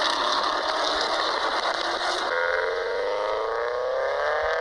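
Car engine accelerating hard. The first half is a dense, noisy rush; from about halfway the exhaust note climbs steadily in pitch.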